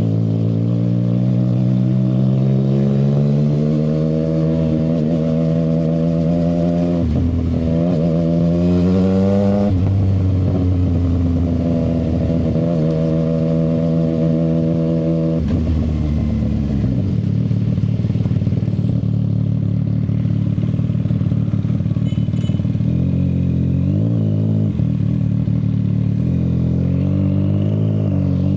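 CFMoto 675SR-R inline three-cylinder engine through an aftermarket shorty exhaust under way: revs climb for several seconds, dip briefly at a gear change, climb again, then hold steady. About halfway through the revs drop off to a lower engine note, with a few small rises in revs near the end.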